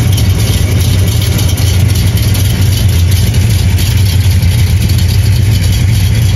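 1966 Pontiac GTO's 400 Pontiac V8 with a solid-lifter cam idling steadily, its exhaust heard close up from beneath the car by the pipes.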